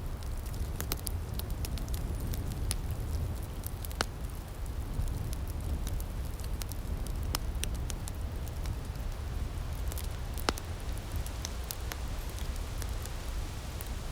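Outdoor wood fire crackling, with irregular sharp pops over a low steady rumble; two louder pops stand out, one about four seconds in and one near the ten-second mark.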